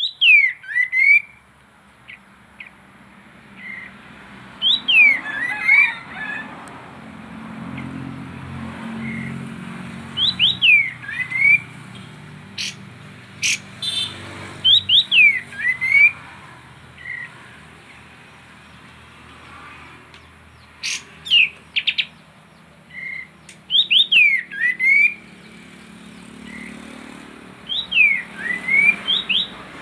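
Kapas tembak bulbul singing: phrases of quick, falling whistled notes repeated every few seconds, with short sharp chirps between them. A faint low rumble sits under the song for a few seconds in the first third.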